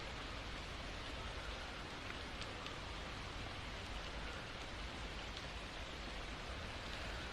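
Steady rainfall, an even hiss with a few faint drop ticks about two and a half seconds in.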